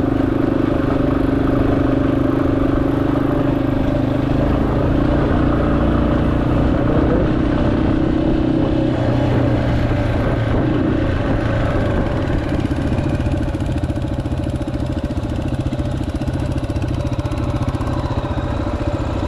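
Yamaha XT250's single-cylinder engine running steadily while the motorcycle is ridden, its note easing off about halfway through.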